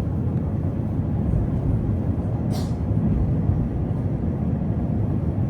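PKTS 71-931M Vityaz-M tram under way, heard from inside: a steady low rumble of the running gear on the rails, with a brief higher hiss about two and a half seconds in.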